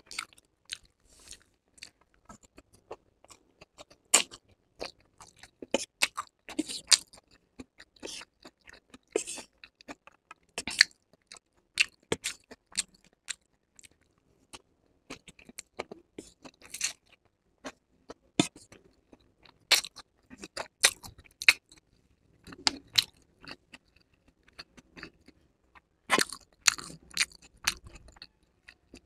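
Close-miked chewing of chowmein noodles with vegetables: irregular sharp mouth clicks and smacks, with a couple of short pauses.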